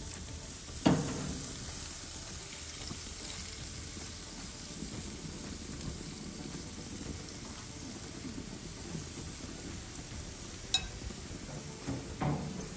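Jerk chicken sizzling steadily as it cooks, with a sharp knock of a utensil about a second in and two more short knocks near the end.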